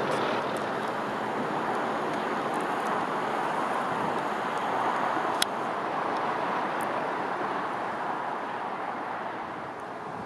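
A train passing through the station: a steady rush of wheel and rolling noise that eases a little near the end, with one sharp click about five seconds in.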